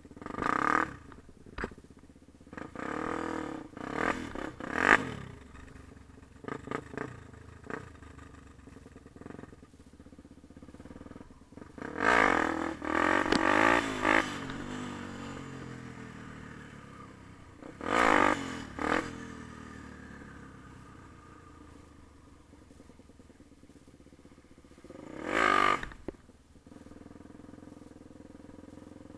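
Yamaha TT-R250 dirt bike's single-cylinder four-stroke engine revving in repeated bursts of throttle, with quieter running between. The longest, loudest rev, rising and falling in pitch, comes about twelve seconds in, and there are shorter bursts near eighteen and twenty-five seconds.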